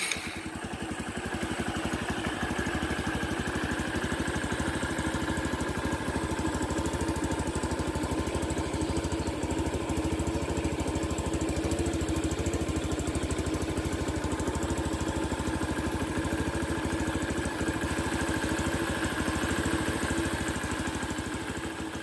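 Custom Honda C70 motorcycle fitted with a Honda Karisma 125cc single-cylinder four-stroke engine, idling steadily with an even, fast exhaust beat.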